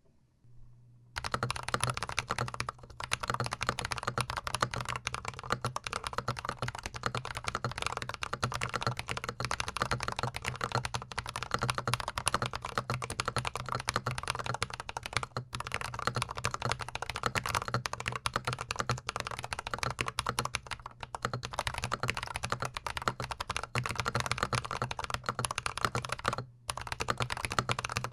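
Fast, continuous typing on a GMMK Pro mechanical keyboard fitted with Glorious Panda tactile switches, a dense run of keystroke clacks. It starts about a second in and breaks off briefly twice, about halfway and again near the end.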